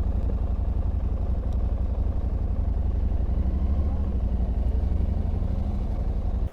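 Motorcycle engine running steadily at low revs, a dense low rumble with a fast even pulse, which cuts off abruptly at the very end.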